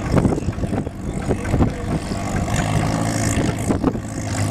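A tractor engine running steadily at an even speed, with a few short knocks and clatters.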